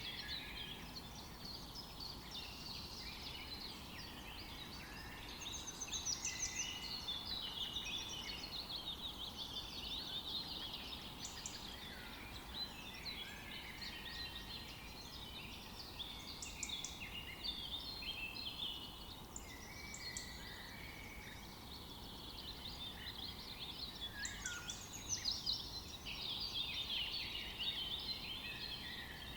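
Several small songbirds chirping and singing over one another without a break, short rapid notes and trills, over a faint steady background hiss.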